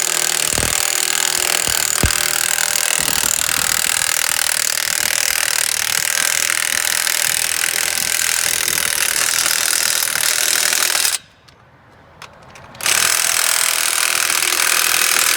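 Power impact wrench running steadily as it drives the bolts holding a tractor's rear wheel to its hub. It is released for about a second and a half near the end, then run again.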